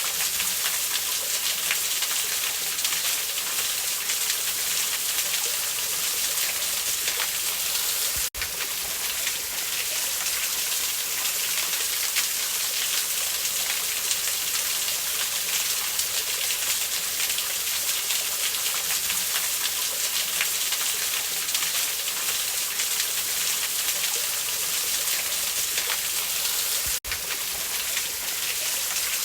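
Waterfall rushing steadily, added over a wood campfire, with a few faint crackles from the fire. The rush drops out for an instant twice, about 8 seconds in and near the end.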